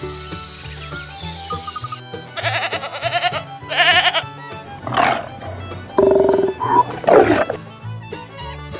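Background music with a string of recorded animal calls laid over it: high chirping for the first two seconds, then several separate calls, some with a wavering pitch and some harsh.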